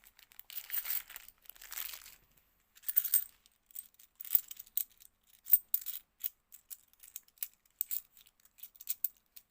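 A plastic bag of 50p coins crinkles for a second or two, then a string of sharp metallic clicks follows as the coins are handled and clink against each other one by one. The loudest click comes about five and a half seconds in.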